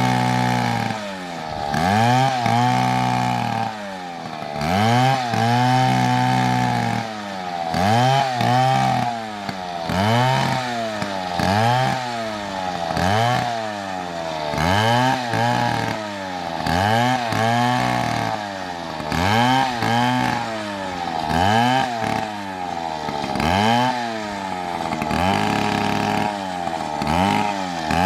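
Chainsaw engine revved up and down over and over, about every two seconds, its pitch rising and falling with each squeeze and release of the throttle.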